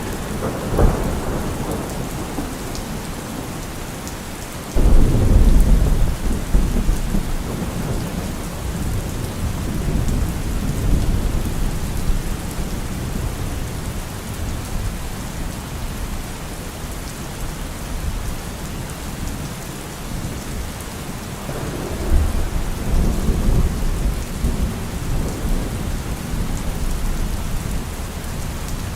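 Steady rain with thunder. A sudden loud clap about five seconds in rumbles on for several seconds, and a second roll of thunder comes a little after twenty seconds.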